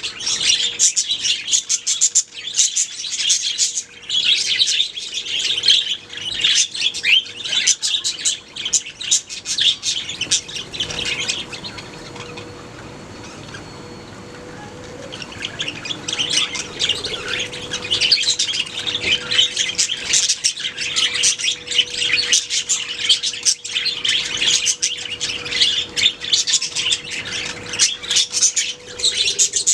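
Budgerigars chirping and warbling, a dense run of quick chirps that drops away for a few seconds midway, then picks up again.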